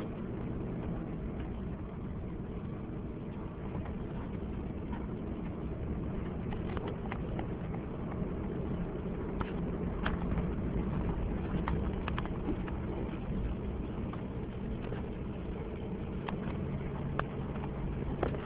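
Vehicle driving on a snowy road: a steady low engine and tyre rumble with scattered sharp clicks.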